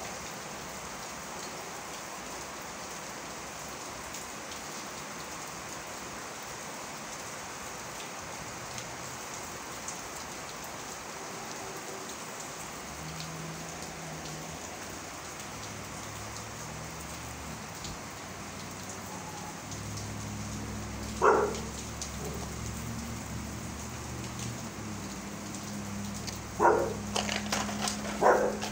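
Steady rain falling, an even hiss. About twenty seconds in, and twice more near the end, a brief loud sound rises sharply above it.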